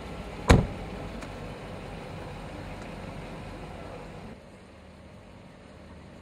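A car door shutting with one loud thump about half a second in, over a steady low street rumble that drops quieter about four seconds in.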